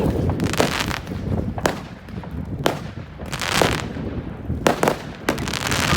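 Fireworks going off: a string of sharp bangs at uneven intervals, with longer spells of crackling about three and a half seconds in and near the end.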